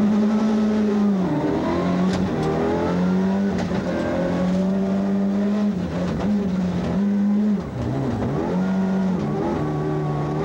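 Toyota Celica rally car engine heard from inside the cockpit, held at high revs with several brief dips and recoveries in pitch as the driver shifts and lifts through the corners.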